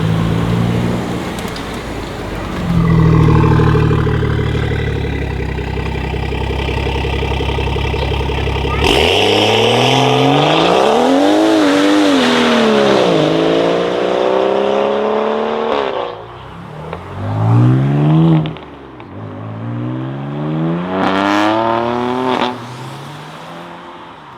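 A tuned BMW 540i's engine running at a steady low note, then, about nine seconds in, revved hard several times in rising and falling sweeps of pitch, the last rev dropping away near the end.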